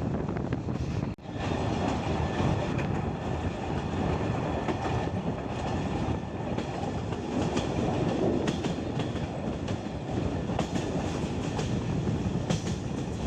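Passenger train coaches running along the rails, heard from the carriage window: a steady rumble and rush of wheels and air, with a few scattered clicks of the wheels over the track. The sound dips briefly about a second in.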